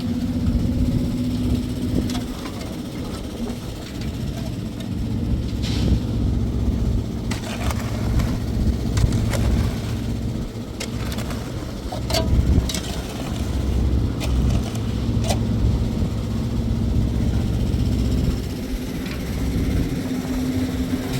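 An engine running steadily with a deep rumble and a constant hum, with scattered sharp knocks over it.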